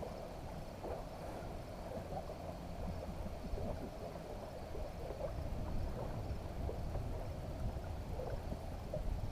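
Steady low outdoor rumble of wind on the microphone and water around the boat, with faint scattered ticks and knocks.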